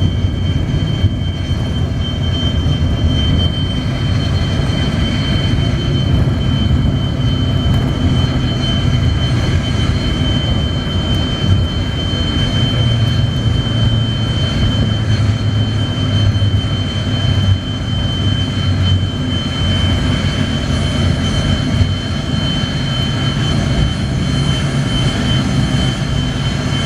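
Yak-42D's three rear-mounted D-36 turbofan engines running, a steady low rumble with a constant high whine over it.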